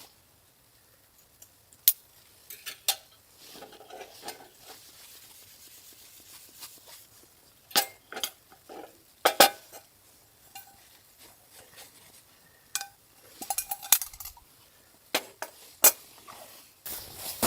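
Irregular sharp clinks and knocks of hard objects being handled, a few ringing briefly, with a quicker run of them in the last few seconds.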